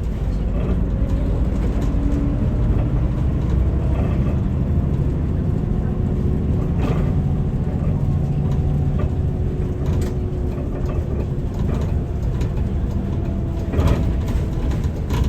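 Inside a city bus on the move: steady engine and road rumble, with the engine's pitch drifting up and down as it drives.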